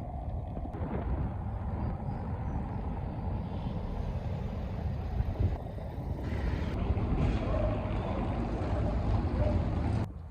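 Wind buffeting a phone microphone outdoors: a gusty, uneven low rumble that cuts off abruptly near the end.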